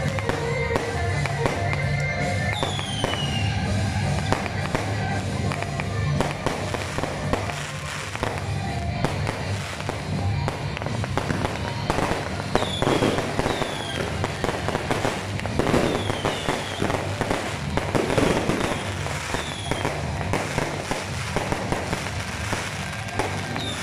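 Aerial fireworks going off in quick succession: a dense run of bangs and crackling from the bursting shells, with short falling whistles now and then. Music plays in the background.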